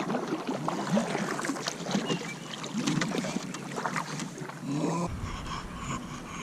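Kayak on a river: water lapping and splashing around the hull with scattered small knocks and clicks, plus short low pitched vocal sounds in the first few seconds. From about five seconds in, wind rumbles on the microphone.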